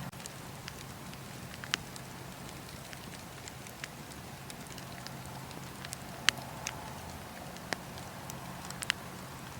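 Wood fire crackling in a fireplace: a steady hiss broken by a handful of sharp pops, the loudest a little past six seconds in.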